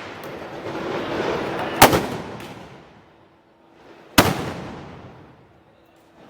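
Two loud black-powder blank shots, as fired from festival arcabuces, about two and a half seconds apart. Each is a sharp crack with an echo dying away over a second or two.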